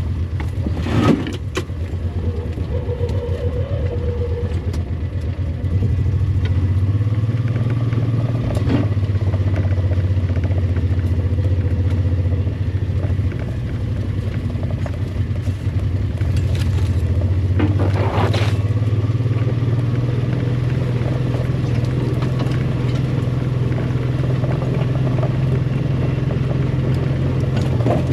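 A vehicle's engine running steadily as it drives, getting louder about six seconds in, with a few sharp knocks and rattles over it.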